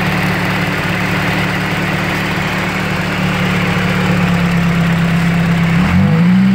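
Turbocharged four-cylinder engine of a modified 1985 Dodge Omni GLH idling steadily, heard close up at the open engine bay. About six seconds in, the revs rise briefly as the throttle is blipped.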